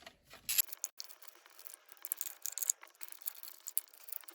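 Light, irregular clicking and rattling of hand tools and small metal and plastic parts as the spark plug cover on a Proton Satria GTI's engine is unbolted.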